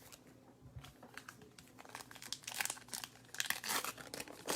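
Trading-card pack wrapper crinkling and tearing as it is handled and opened, in irregular crackly bursts that are louder about two and a half and three and a half seconds in.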